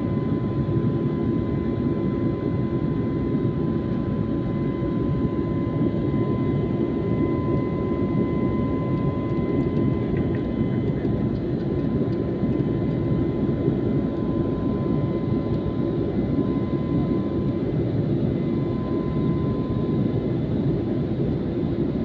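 Airliner jet engines running at a steady power, giving a constant low drone with a thin, steady whine on top.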